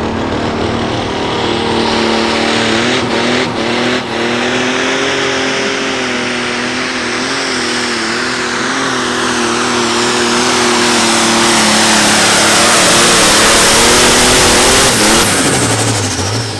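Turbocharged diesel Light Pro Stock pulling tractor under full load on a pull, its engine held at high revs with a rising hiss. The engine note drops away about fifteen seconds in as the run ends.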